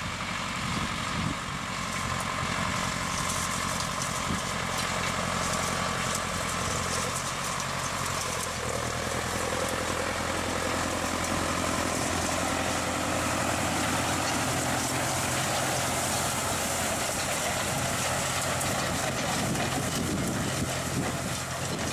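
Engine of a heavy farm machine running steadily, with a haze of mechanical noise over it.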